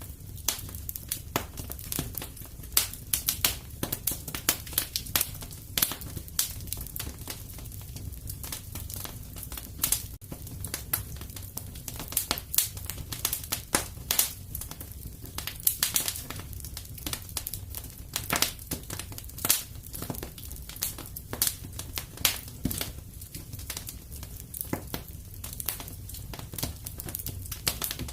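Wood fire crackling and popping irregularly, with many sharp snaps over a low steady rumble of the flames.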